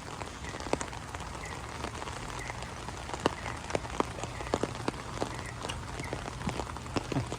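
Rain falling steadily, with frequent irregular sharp taps of drops striking an umbrella overhead.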